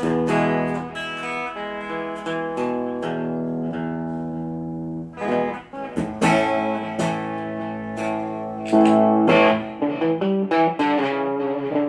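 Guitar played on its own: plucked chords and single notes ringing out, busier and louder from about halfway through.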